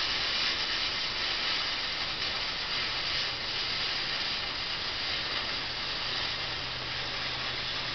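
2mm green safety fuse burning with a steady hiss.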